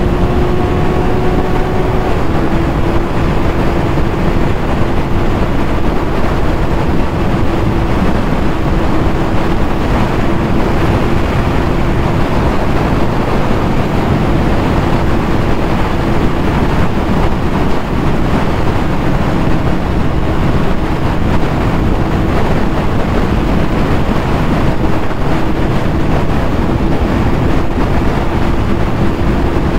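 Yamaha YZF-R6's inline-four engine running with a steady, even note at cruising speed, under heavy wind rush on the microphone.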